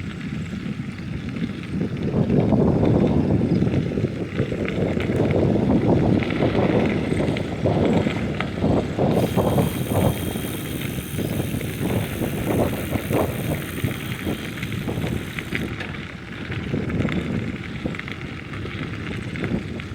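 Wind buffeting the microphone on a moving bicycle, a surging low rumble with many small rattling clicks. About nine seconds in, a high hiss with a faint thin whine joins and stops about six seconds later.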